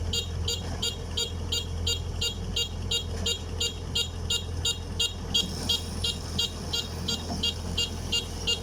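Yanmar DC105X combine harvester's diesel engine running steadily, with its warning beeper sounding short high beeps about four times a second.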